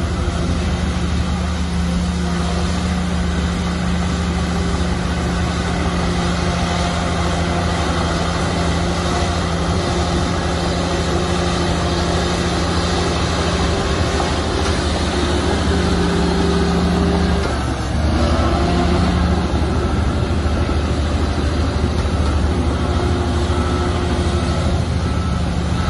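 Heavy diesel construction machinery running steadily with a deep, even engine note. About two-thirds of the way through the note dips briefly and then picks up again.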